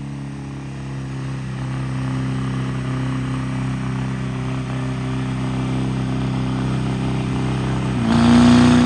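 Truck engine running hard at a steady speed, then revved higher and louder about eight seconds in.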